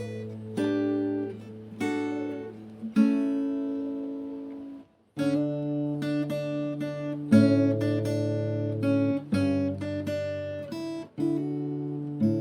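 Background music: an acoustic guitar playing a slow run of chords, each struck and left to ring out, with a brief pause about five seconds in.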